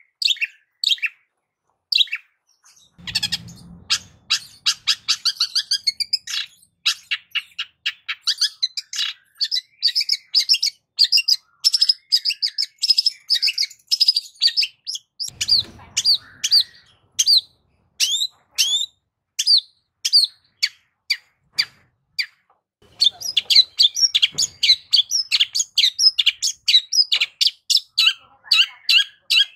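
Long-tailed shrike (cendet) singing: fast runs of short, sharp, chattering notes with brief pauses, a varied song full of mimicked calls.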